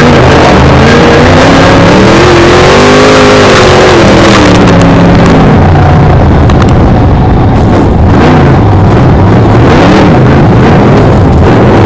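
BriscA F1 stock car's V8 engine heard on-board at racing speed, very loud, its revs climbing and falling away several times as the throttle is opened and lifted.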